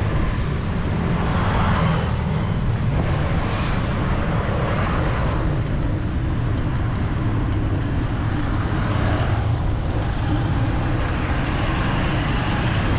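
City street traffic passing close by, with vehicles swelling up and fading several times over a steady low wind rumble on the microphone.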